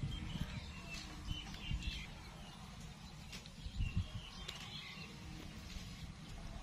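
Faint short bird chirps, in clusters through the first two seconds and again around four seconds in, over a low rumble.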